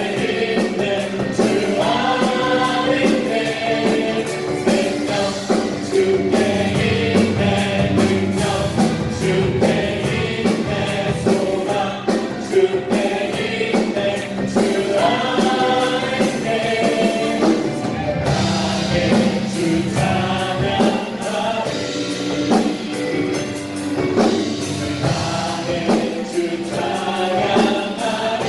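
A praise team singing a gospel worship song together with a band accompaniment and a steady beat.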